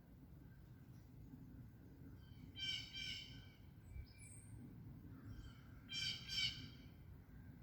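A bird calling outdoors: two short bursts of loud, pitched calls about three seconds apart, with a few fainter calls between, over a steady low background hum.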